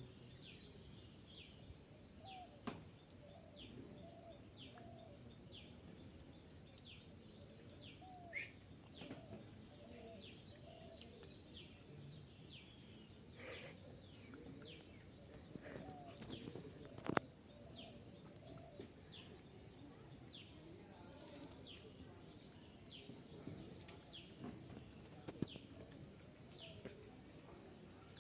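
Birds calling: many short, falling chirps repeat throughout. From about halfway a higher, steady-pitched call about a second long joins in, repeating every two seconds or so, with a sharp click or two.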